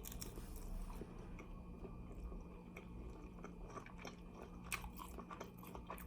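A person chewing and biting into fried chicken wings: faint chewing with small crunches and crackles, and a couple of sharper crunches a little under five seconds in.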